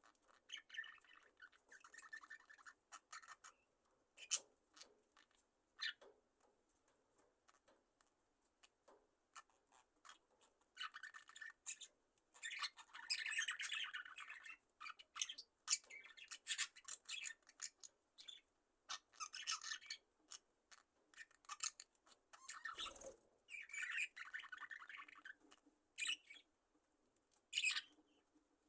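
A flock of budgerigars chirping and chattering softly in bursts, with short clicks in between; the chatter is busiest about halfway through. A low thump about two-thirds of the way in.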